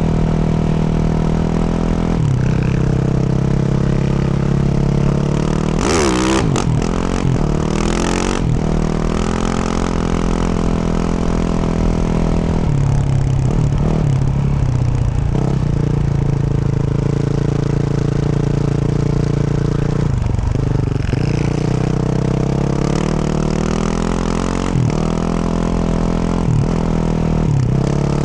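2024 Yamaha YZ450F's 450 cc single-cylinder four-stroke engine running through a Yoshimura RS-12 exhaust while being ridden, holding steady revs with several throttle chops where the pitch drops and then climbs again. A couple of sharp clattering knocks come around six and eight seconds in.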